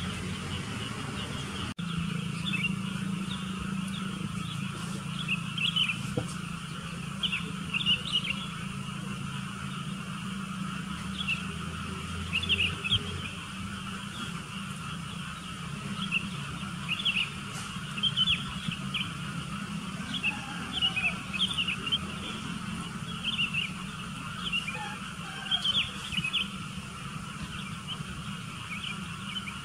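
Sooty-headed bulbuls calling: short, quick chirps repeated again and again, over a steady low hum.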